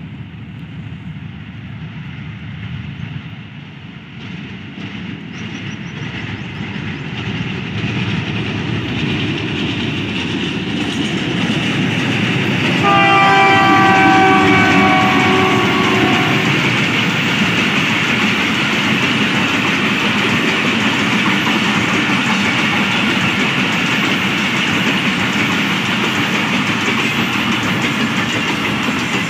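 Diesel-electric locomotive 8040 hauling a passenger train approaches, its engine on a reduced throttle notch and its wheels on the rails growing steadily louder. About thirteen seconds in, the locomotive's horn sounds for about three seconds as it passes, then the coaches roll by with a steady loud rumble of wheels on the track.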